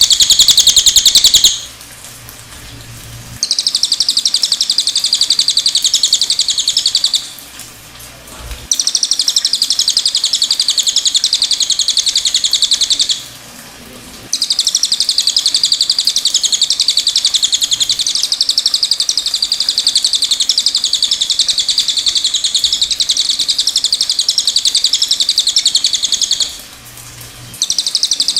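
Cililin singing: long, very rapid, high-pitched trilling phrases, the longest running about twelve seconds, broken by short pauses of a second or two.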